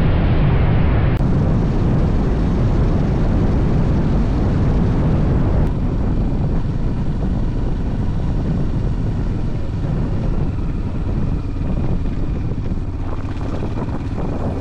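Tekken motorcycle running at road speed: a steady low drone mixed with rushing noise, a little quieter after about six seconds.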